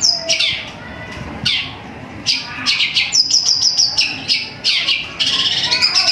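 Long-tailed shrike singing: a series of sharp, falling sparrow-like chirps, then a fast string of short notes, about nine a second, a little past the middle, and a dense rapid run near the end.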